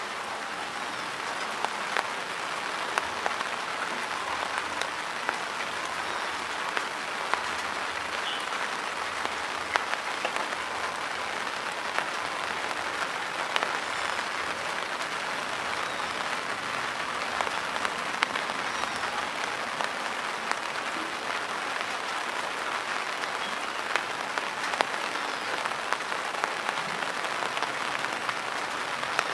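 Steady rain falling on shallow floodwater and wet grass: a dense, even patter with scattered sharper drop ticks.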